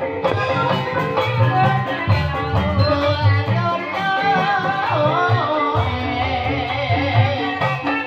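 Live ebeg music played in dangdut style: a steady rhythm of low drum strokes with mallet percussion, under a wavering sung melody.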